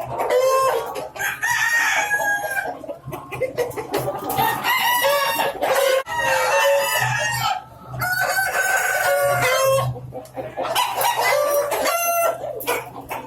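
Roosters crowing again and again, about six long crows one after another, with clucking in between.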